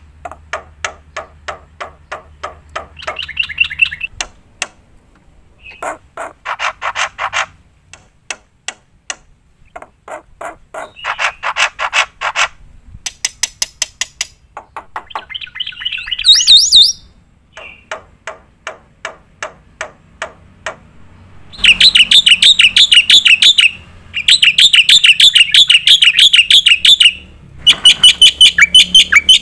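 Black-winged myna (jalak putih) singing a long, varied song full of mimicked phrases. It has runs of rapid, dry clicking notes broken by short pauses, then loud, fast trilling phrases in the last third.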